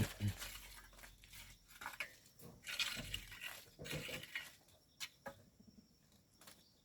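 Faint, scattered crunching and knocking of sand and stones being worked by hand, with one sharp click about five seconds in.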